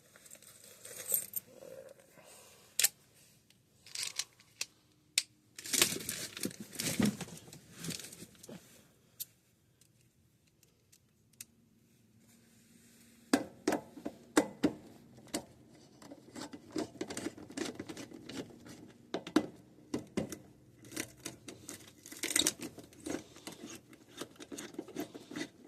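Hand work on an electrical panel: scattered clicks, small metallic rattles and rustling as tools and parts are handled, with a quiet pause of a few seconds in the middle.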